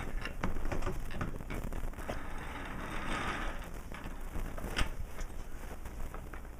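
Toy trains rattling and clicking along a toy railway track, with a run of small clicks and one sharper click near the end.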